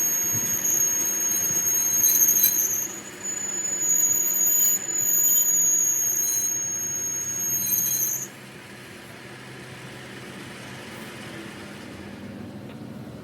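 A steady, high-pitched metal squeal from machining, with a few brief breaks, stopping suddenly about eight seconds in. A quieter low hum is left after it.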